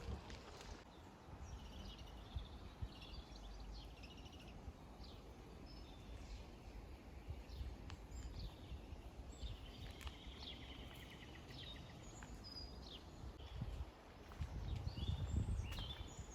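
Small birds chirping and trilling again and again, over a faint low rumble that swells near the end.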